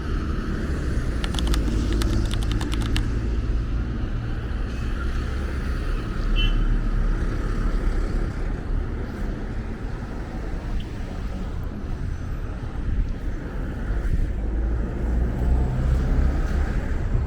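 City road traffic, a steady low rumble of passing cars, with a few faint clicks about two seconds in.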